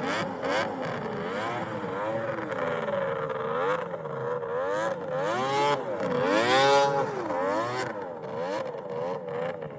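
Yamaha SRX700 snowmobile's three-cylinder two-stroke engine, on an aftermarket triple-pipe exhaust, being revved repeatedly in the stand. The pitch rises and falls with each blip, and the highest, longest rev comes about six seconds in.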